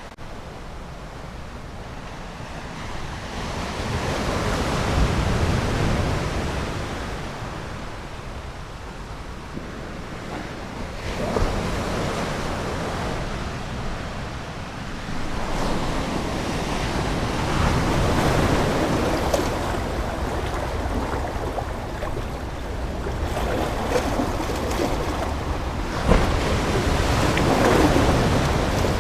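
Ocean waves breaking and washing in, a hiss of surf that swells and fades with each wave, about four surges in the stretch.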